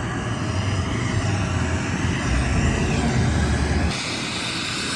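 Helicopter running, a loud, choppy low rotor rumble that drops away abruptly near the end.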